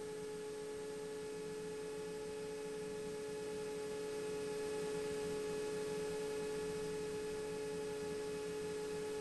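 Faint steady electrical hum made of several held tones, the background noise of the aircraft's radio audio feed between transmissions.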